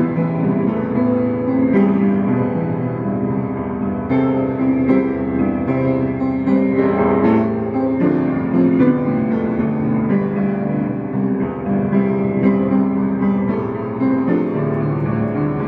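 Solo piano playing a song cover by ear: chords and melody with notes struck and held, at an even level throughout.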